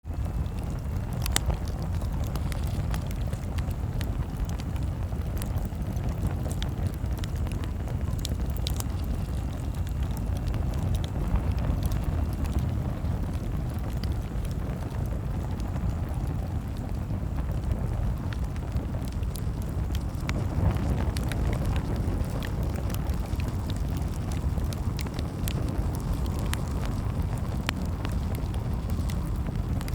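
Campfire crackling: frequent sharp pops and snaps, irregularly spaced, over a steady low rumble.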